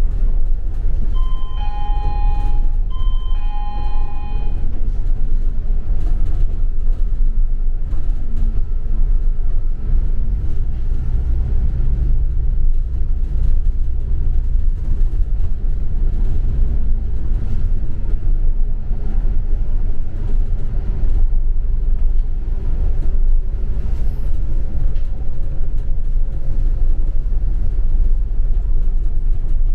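Double-decker bus cabin: steady low engine and road rumble while the bus is under way. Two electronic beeps, each over a second long, sound one after the other a couple of seconds in.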